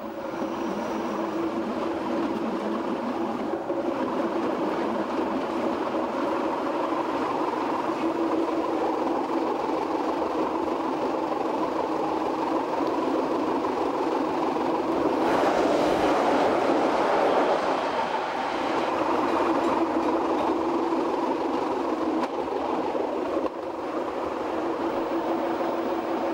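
A metre-gauge electric train of the Fribourg railways (GFM), heard from on board as it runs along the line: a steady running noise with a constant low hum. The noise grows louder and brighter for a few seconds about two-thirds of the way in.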